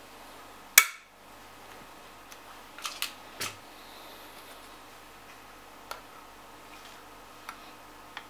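One sharp, loud click about a second in, then a few lighter clicks and taps around three seconds in and faint ticks later: small hard parts being handled during graphics-card repair work.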